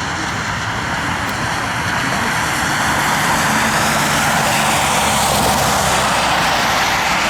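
Jet airliner's engines running, a steady loud rush with a low hum that swells slowly and eases a little near the end.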